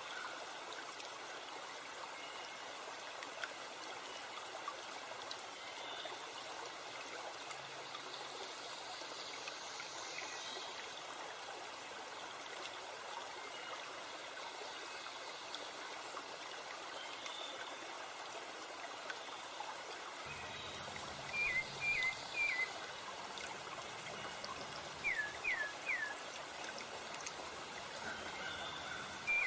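Steady rushing of a forest stream or river. Near the end a bird gives two quick sets of three short, sharp call notes over the water.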